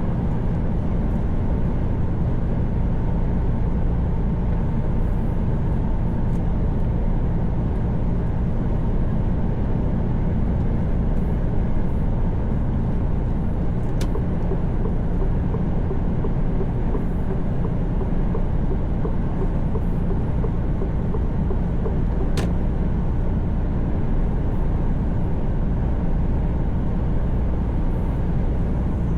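Steady engine and road drone of a Mercedes Actros truck cruising on the motorway, heard inside the cab. Two faint clicks sound, about halfway and again about three-quarters through.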